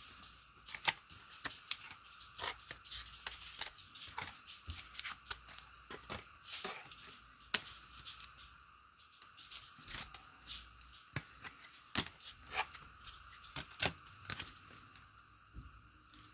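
Football trading-card packs being torn open and the cards handled: an irregular run of sharp crinkles, rips and clicks of foil wrapper and card stock.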